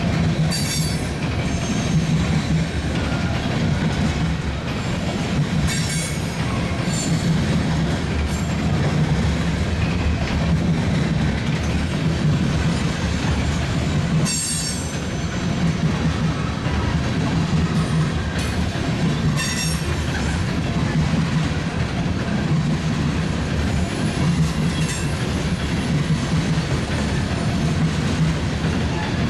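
Diesel-hauled BNSF freight train rolling past, its locomotive engines running with a steady low drone. Short squeals and clanks from the wheels on the rails come through several times.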